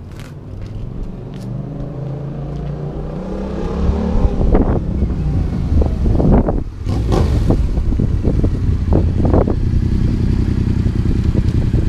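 Motorcycle engine accelerating, its pitch rising steadily over the first few seconds, then running loud and rough through the rest.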